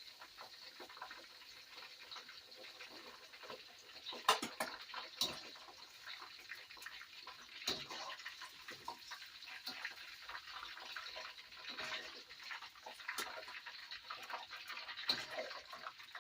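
Water running from a kitchen tap, with scattered clicks and knocks of things being handled under it.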